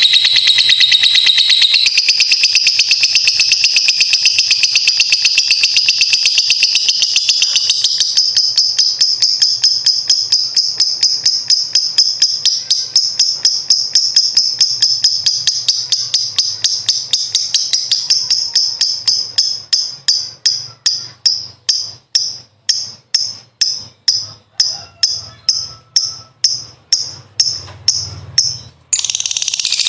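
A lovebird's long ngekek trill: a rapid, high-pitched chatter that runs on unbroken for nearly twenty seconds, then slows into separate chirps about two a second. It breaks off briefly near the end and starts again.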